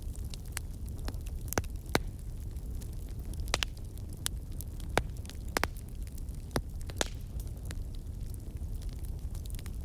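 Wood fire burning in a fireplace: a steady low rumble of the flames with sharp, irregular crackles and pops, a few of them louder.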